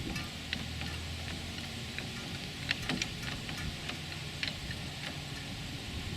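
Scattered light clicks and ticks, a few close together about three seconds in, over a low steady hum.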